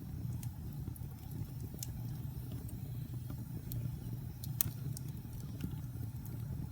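Wood fire burning in a fireplace: a steady low rumble of flames with irregular sharp crackles and pops from the logs, the loudest pop about two-thirds of the way through.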